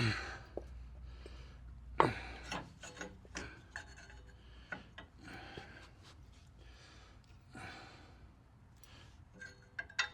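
Chassis parts being handled and fitted by hand: a sharp knock about two seconds in, then short scraping and rubbing sounds and light clicks at intervals.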